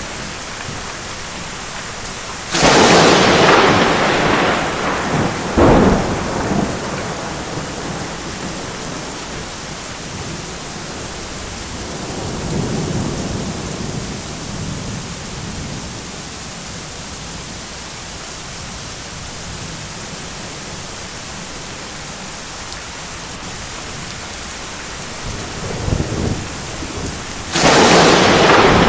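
Thunderstorm: steady rain with thunder. A sharp thunderclap about two and a half seconds in rumbles off, with a second crack a few seconds later, a softer low rumble about midway, and another loud crack near the end.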